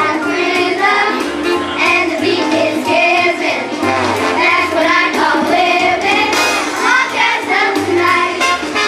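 Children's choir singing a song together over a musical accompaniment with a steady bass line.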